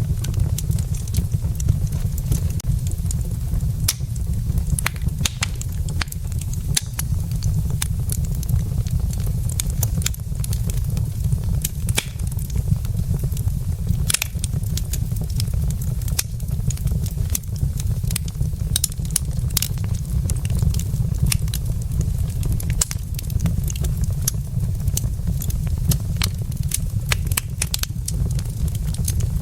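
Wood logs burning in a fireplace, crackling with frequent, irregular sharp pops over a steady deep background noise.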